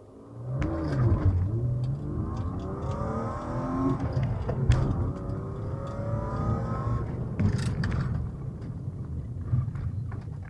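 Car engine accelerating hard, heard inside the cabin through the dashcam's microphone: its pitch climbs steadily for several seconds, then eases off about seven seconds in.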